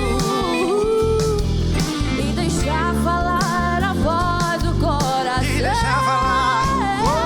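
A live pop-rock band playing, with a steady bass and drum beat under a lead melody that glides and wavers in pitch.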